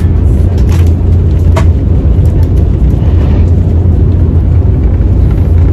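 Steady low rumble of a high-speed Italo train heard from inside the passenger car while running at speed, with one brief click about a second and a half in.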